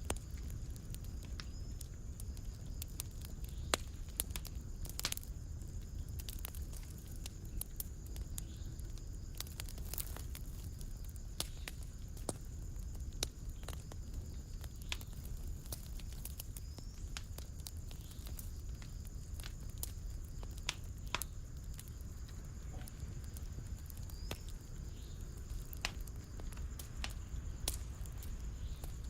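Wood fire in a fireplace crackling: irregular sharp pops and snaps over a steady low rumble of burning, with a couple of louder pops.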